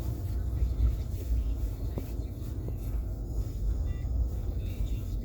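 Steady low rumble of a car heard from inside its cabin, with a faint click about two seconds in.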